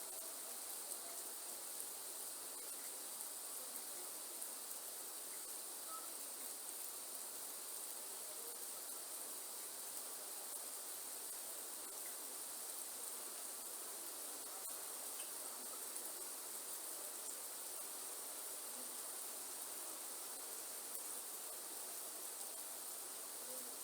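A continuous high-pitched chorus of insects, such as crickets, trilling steadily over an even soft hiss of forest ambience.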